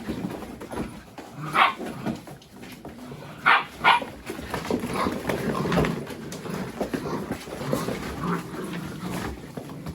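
Mini Goldendoodle puppies yapping at play: three short, high yaps, two of them close together, over a run of lower scuffling noise.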